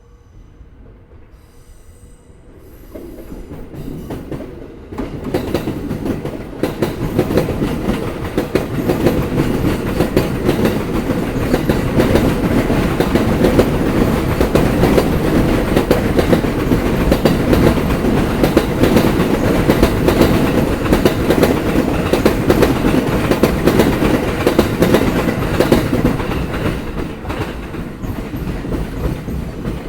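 Sobu Line electric commuter train running over rail joints, its wheels clattering. The sound builds over the first several seconds, stays loud, and eases near the end.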